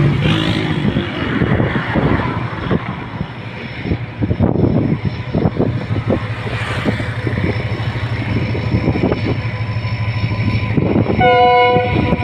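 Pakistan Railways passenger train running past with a steady low engine drone and a clatter of knocks from the wheels over the rails. Near the end comes one short horn blast.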